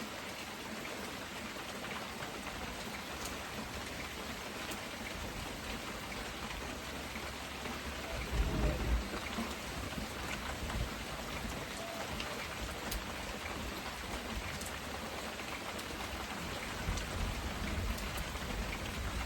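Heavy rain pouring down steadily, with a brief low rumble about eight seconds in.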